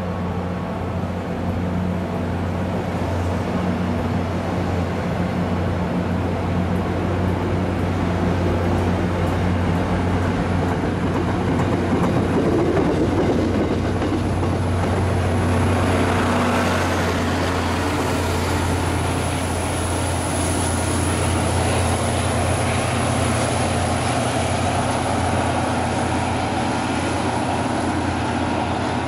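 Commuter train of bilevel passenger coaches rolling past at low speed, over the steady low drone of a diesel locomotive's engine. The rolling noise swells about halfway through, and a thin high whine comes in about a third of the way in.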